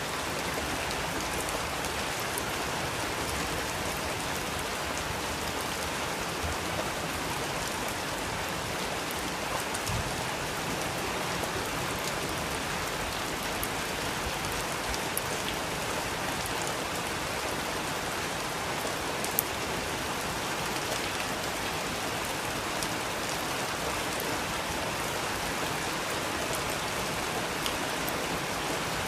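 Steady rain falling, with scattered drops ticking on a surface and one sharper drip about 19 seconds in.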